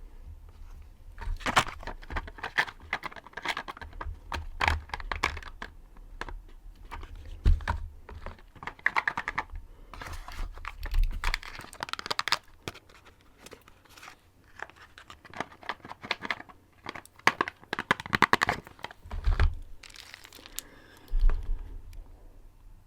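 Wax crayons scratching and rubbing close to the microphone in short, irregular strokes, with crinkling and a few low thumps.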